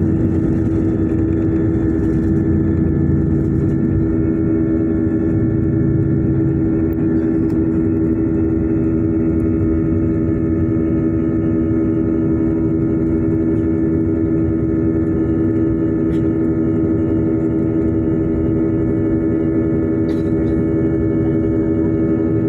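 Airliner jet engines heard from inside the passenger cabin during takeoff: a loud, steady drone with a strong, even hum over a low rumble.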